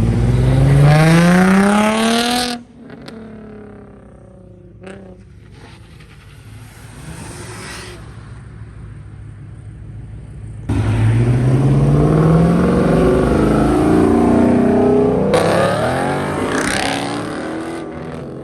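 Modified cars accelerating hard away from a car meet, engines revving up with climbing pitch. A loud run at the start cuts off suddenly about two and a half seconds in, leaving a quieter engine sound that drops in pitch. About eleven seconds in, another car launches loudly, its pitch rising and rising again before it fades.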